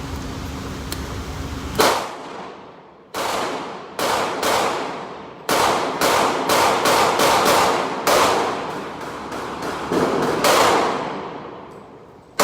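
Gunfire at a shooting range: a steady hum, then about twenty shots, each trailing off in a long ringing decay. The shots start slow and irregular, then come about three a second from about six seconds in, and stop near ten and a half seconds.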